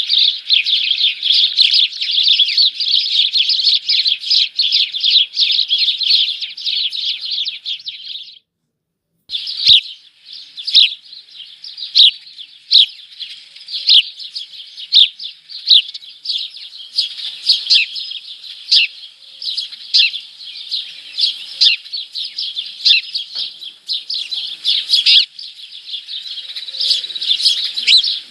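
Small birds chirping inside a birdhouse, close to the microphone. A rapid, continuous chatter of high chirps for about eight seconds breaks off for a moment. It resumes as single chirps roughly once a second, which grow busier again near the end.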